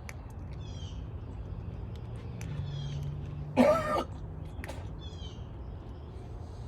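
A cat gives one short, harsh meow about halfway through. A small bird repeats a brief descending chirp about every two seconds over a steady low hum.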